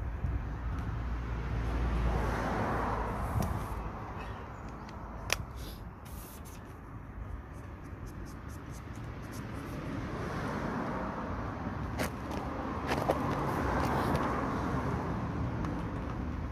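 Road traffic: a car passes, swelling and fading, about two seconds in, and another passes near the end, with a few sharp clicks in between.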